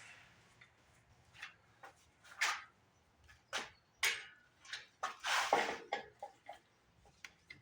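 Scattered metal clanks and rattles from the lifting chain and hoist gear as the mower is let down: a string of short separate knocks, with a longer scraping rattle about five seconds in.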